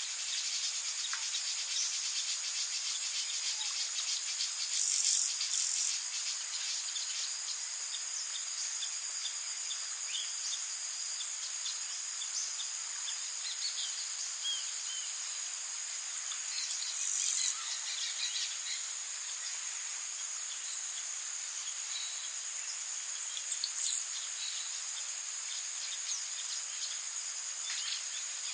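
Steady high-pitched drone of rainforest insects over an even hiss of falling rain, with scattered short bird chirps. Brief louder high buzzes break in about 5 seconds in, around 17 seconds and around 24 seconds.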